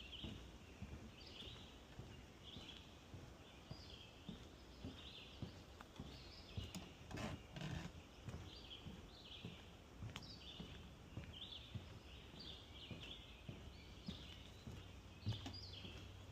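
Footsteps thudding softly on a wooden boardwalk, with birds chirping throughout, short high calls repeated once or twice a second. A few louder knocks come about seven seconds in.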